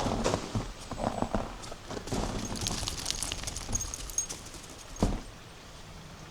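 Footsteps crunching on compacted, frozen snow at a walking pace, ending with a sharper step about five seconds in.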